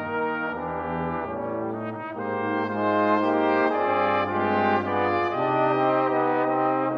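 Brass quintet of two trumpets, French horn, trombone and tuba playing a slow ballad in sustained chords over a tuba bass line, swelling louder about halfway through.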